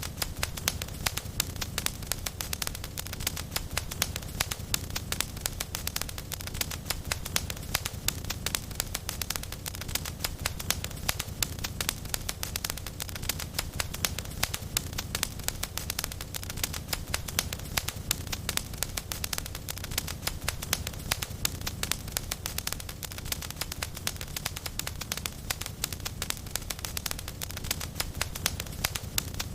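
Wood fire in a fireplace crackling steadily, with dense, irregular small pops and snaps over a low rumble.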